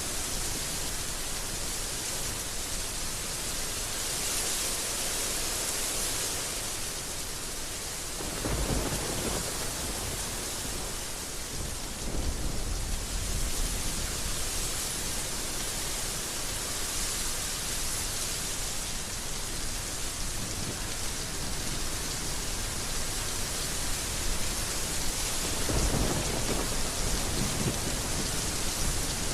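Heavy rain falling steadily, with deep low rumbles swelling up about a third of the way in and again near the end.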